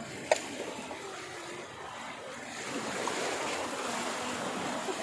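Rushing water, a steady noise that swells louder a few seconds in, with one sharp click shortly after the start.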